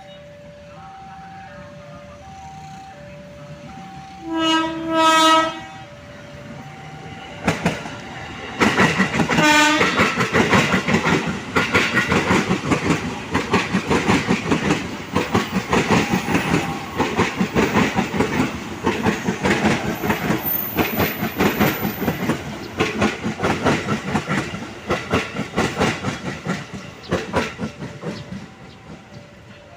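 An electric commuter train sounds its horn in a short two-part blast, then passes with its wheels clacking rhythmically over the rail joints for about twenty seconds, fading near the end. A steady alternating two-note electronic alarm, typical of a level crossing, chimes before the train arrives and again as it fades.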